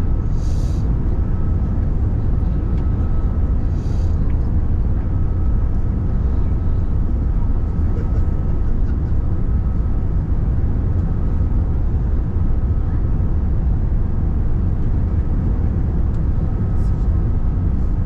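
Steady cabin noise inside a British Airways Airbus A380 in flight: a dense low rumble of its Rolls-Royce Trent 900 engines and the airflow, with a faint steady whine above it. Two short high-pitched sounds come in the first four seconds.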